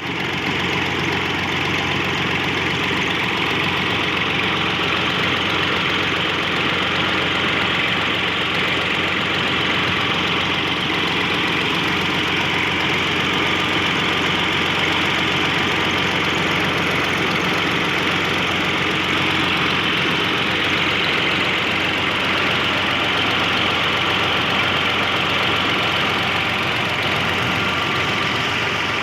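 New Holland Al-Ghazi 65 hp tractor's diesel engine running at a steady, unchanging speed while it drives a tubewell pump through its PTO shaft.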